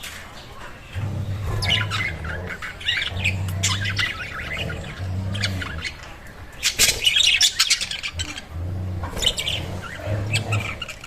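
Several budgerigars chirping and chattering in quick bursts of short, high warbling calls, busiest about seven seconds in.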